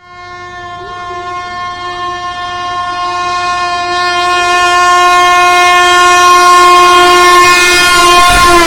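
Locomotive horn held in one long, steady blast that grows louder as the train approaches. Its pitch drops slightly near the end as the train passes and the rumble of the train rises.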